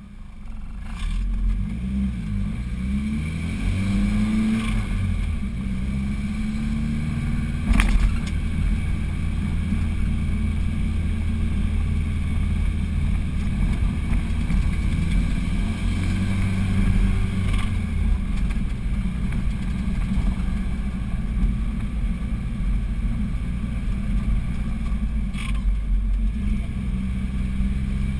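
Vehicle engine running as it climbs a hill road, heard from inside the cabin: it revs up with rising pitch about two to five seconds in, then runs steadily. A single sharp knock about eight seconds in.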